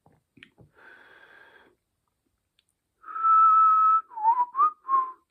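A person whistling a short tune: a faint note about a second in, then a long held note followed by a few shorter notes that dip and rise in pitch.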